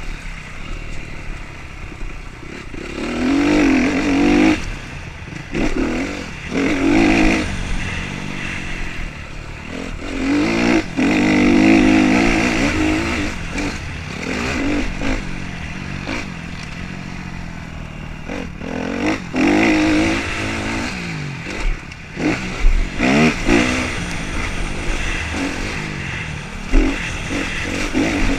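Motocross motorcycle engines revving up and dropping off over and over, with louder bursts every few seconds as bikes pass close.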